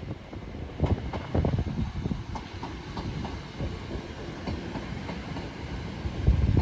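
A train running past, its wheels knocking over rail joints with irregular thumps over a steady low rumble.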